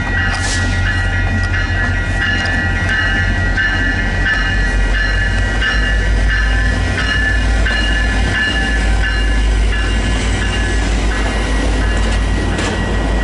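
VIA Rail passenger coaches rolling past: a steady heavy rumble under a high ringing tone that pulses a little under twice a second.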